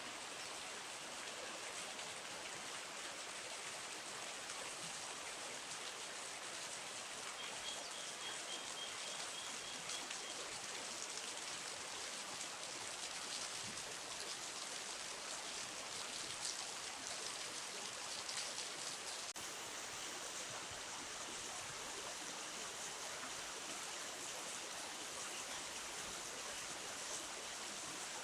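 River water flowing steadily, an even rushing hiss. About eight seconds in, a faint series of short high peeps from a bird is heard for a few seconds.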